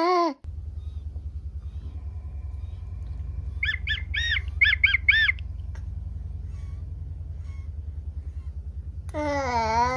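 A bird chirping in a quick run of about seven sharp, high, arching notes around four seconds in, over a steady low hum. Near the end a baby gives a drawn-out vocal sound lasting about a second.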